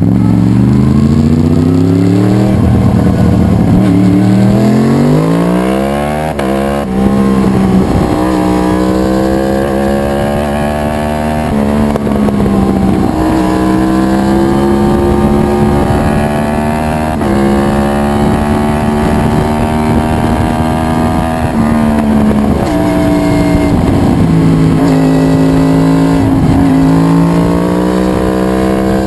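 The 2011 Yamaha R1's built crossplane inline-four running hard. Its pitch climbs steadily over the first seven seconds, then holds high with several sudden steps down and back up.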